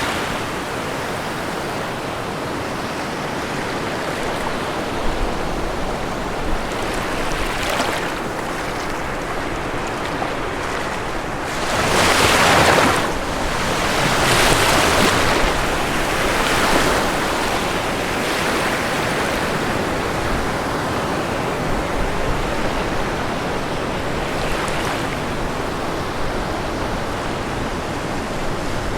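Ocean waves breaking and washing on a shore: a continuous rushing surf, with the biggest wave crashing about twelve seconds in and two more swells following close behind.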